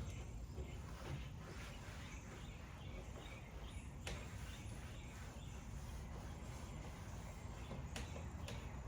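Faint outdoor background with light rustling and handling noise, broken by a sharp click about four seconds in and two more near the end.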